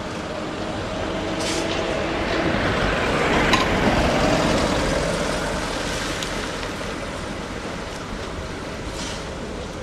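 A motor vehicle driving past: its engine and tyre noise grows louder, peaks about four seconds in, then fades away.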